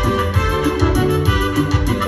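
Band music: sustained electric keyboard chords over a steady bass and drum beat.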